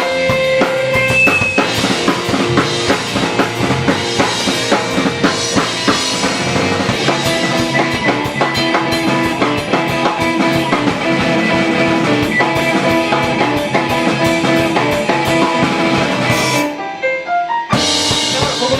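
Live rock band playing an instrumental fusion piece: drum kit, bass and guitar. Near the end the band stops together for about a second, then comes back in.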